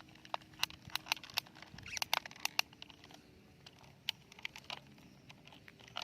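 Irregular sharp clicks and taps, several in quick succession in the first half and a few more scattered later, over a quiet background.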